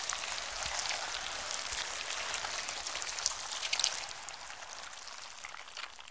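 Steady rain-like crackle: a dense patter of many small ticks over a soft hiss, easing a little near the end.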